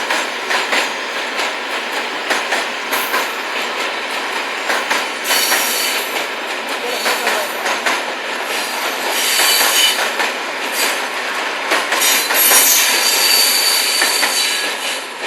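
Freight train wagons rolling past with a steady clatter of wheels over the rail joints. High-pitched wheel squeal comes in twice, briefly at first and then longer near the end.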